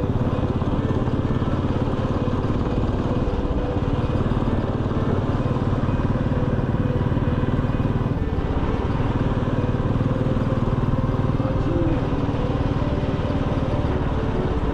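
Motorcycle engine running steadily under way on a ride, with an even, fast pulsing at the low end.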